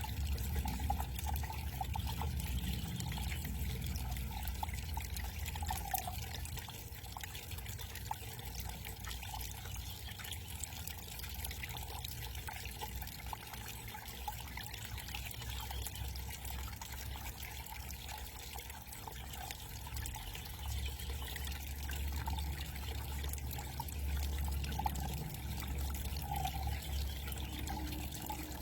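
Small backyard waterfall trickling and splashing steadily.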